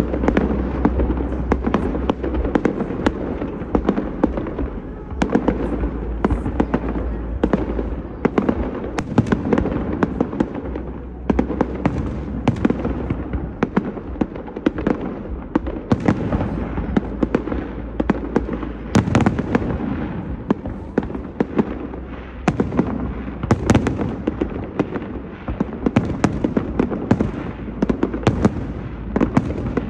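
Bonfire Night fireworks going off without a break: a dense run of sharp bangs and crackles.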